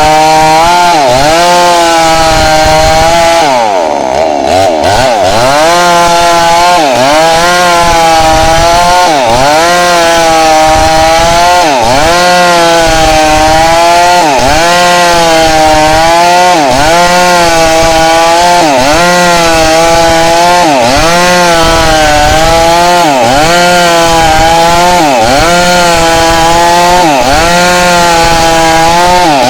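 Two-stroke chainsaw running at high revs while ripping a log lengthwise into boards, its engine pitch dipping under load about once a second. About four seconds in, the throttle eases off briefly, then the revs climb back up.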